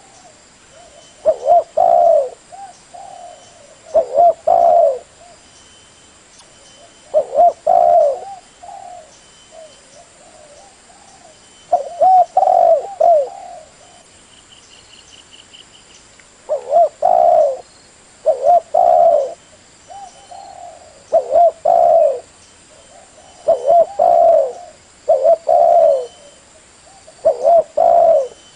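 Spotted dove cooing: a series of low, repeated coo phrases, about ten of them, each lasting about a second, spaced two to four seconds apart.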